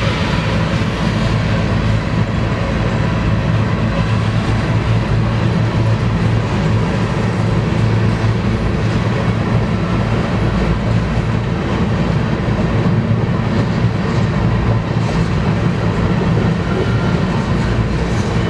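Freight train of grain cars rolling steadily past: a loud, continuous rumble of steel wheels on the rails.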